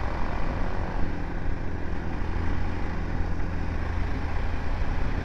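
BMW G 310 GS motorcycle's single-cylinder engine running steadily while riding, with a constant low rumble and noise from the ride.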